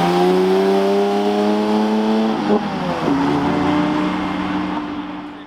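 A car engine pulling away under acceleration, its pitch rising steadily, then dropping at a gear change about two and a half seconds in before it carries on and fades as the car moves off.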